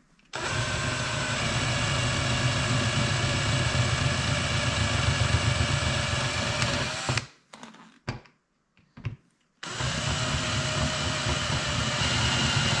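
Power drill drilling out an aluminum snowshoe rivet. It runs steadily for about seven seconds and stops, with a couple of faint clicks, then starts again on the next rivet about three seconds before the end.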